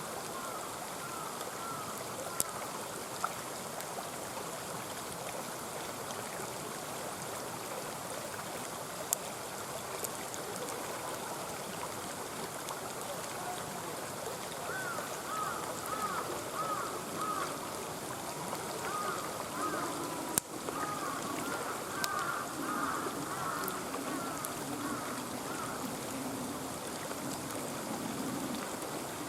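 A mountain stream flowing steadily, with a few sharp pops from a campfire. In the second half, an animal gives a run of short, repeated calls.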